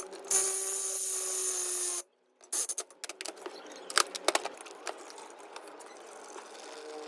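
A hand-held power tool runs steadily for about two seconds and stops abruptly. It is followed by a series of sharp clicks and taps.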